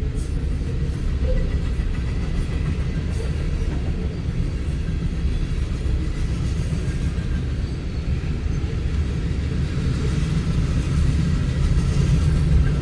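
Freight cars of a westbound manifest train rolling past at speed: a steady low rumble of steel wheels on the rails.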